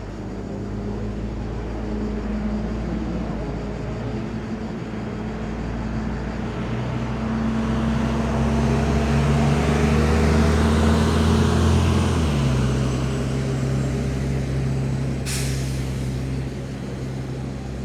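A heavy vehicle's engine running close by, growing louder for several seconds and then dropping in pitch about twelve seconds in. A short air-brake hiss comes near the end.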